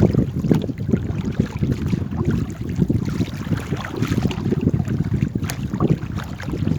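Wind buffeting the microphone in an irregular low rumble, with the sounds of a paddled boat on the water.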